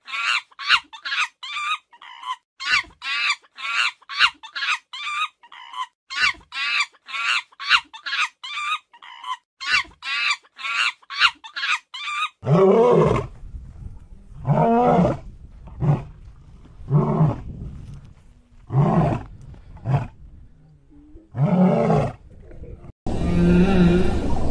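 Emperor tamarin calling in quick, high-pitched chirps, about four a second. About halfway through, this gives way to an unseen animal's lower calls, repeated about every two seconds, each rising and then falling in pitch. Near the end a steady whale sound begins.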